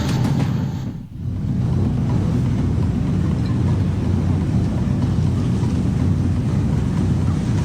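Steady low rumbling noise, like outdoor field audio, after a brief drop in sound about a second in; background music plays before the drop.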